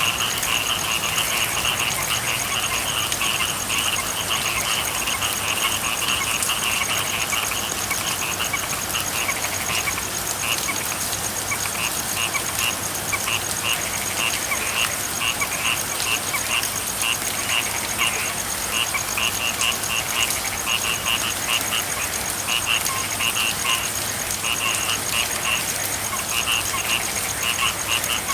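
A chorus of frogs calling over steady rain: a high trilling call that is continuous at first and breaks into short repeated bursts from about a third of the way in, with lower croaks beneath.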